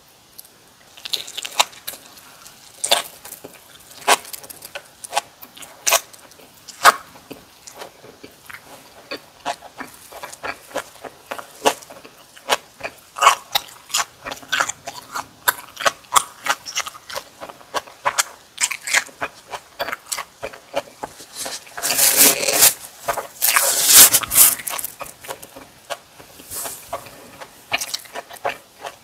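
A person chewing and biting into kimchi and boiled pork close to the microphone, with crisp crunches and wet mouth clicks. A louder, denser run of crunching comes about three quarters of the way through.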